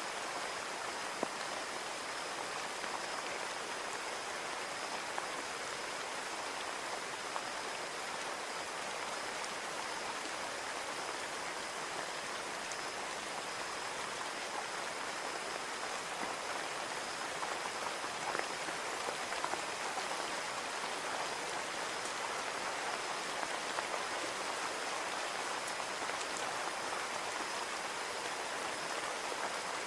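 Steady rain pattering on a window, an even hiss of falling rain with scattered individual drop ticks.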